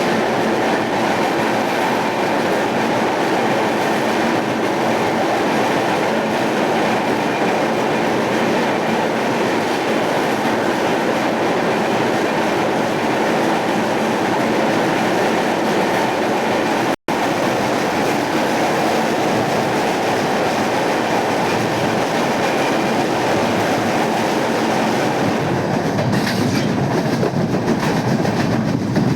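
Passenger train running along the track, a steady rumble of wheels on rails. The sound drops out for an instant partway through and turns rougher and heavier near the end.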